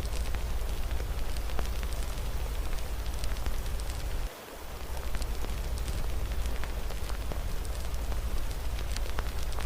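Fireplace fire crackling with many small sharp pops over a steady hiss of rain and a low rumble. The sound briefly dips and thins out about four and a half seconds in.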